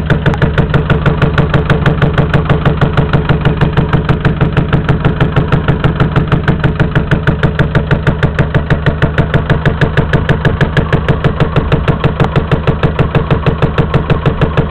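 Land Rover 200Tdi 2.5-litre four-cylinder turbo diesel idling with a rapid, regular banging from the manifold side of the engine, steady throughout. The cause of the banging is unknown to the owner.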